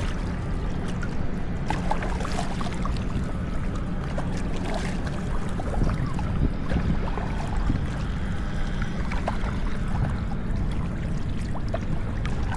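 Kayak paddles dipping into river water, with splashing and dripping off the blades as the strokes go on. A steady low rumble runs underneath.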